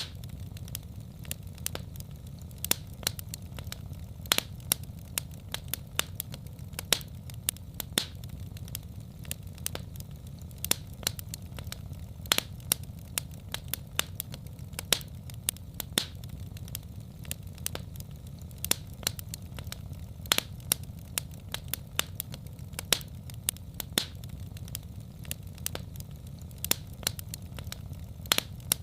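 Wood fire crackling in a fireplace: a steady low rumble of the flames with sharp pops and snaps coming irregularly, a few each second.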